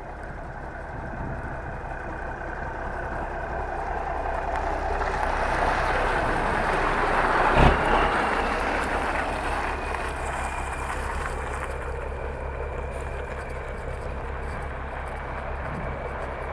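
A car driving past, its engine and tyre noise growing louder to a peak about halfway through and then fading away. There is a single sharp thump at the loudest moment.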